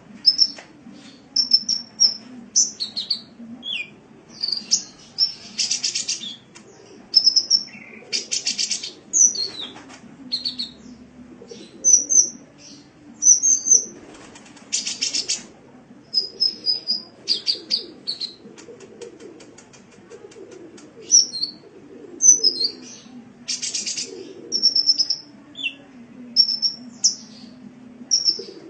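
Sunbird (kolibri) song: rapid short, high chirps and sweeping notes, broken up every few seconds by buzzy rattling trills, over a steady low hum.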